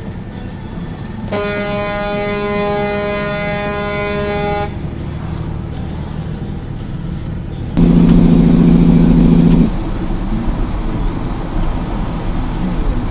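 A car horn held for about three seconds, then a few seconds later a louder, deeper truck air horn blast lasting about two seconds, over steady road and engine noise.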